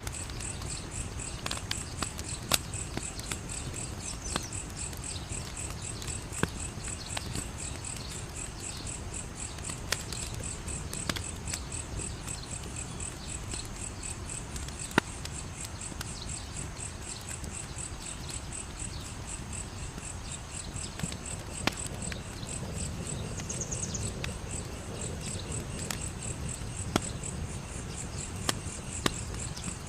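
Wood fire crackling, with sharp pops every few seconds over a low steady rush of burning. Night insects chirp in a fast, even rhythm throughout.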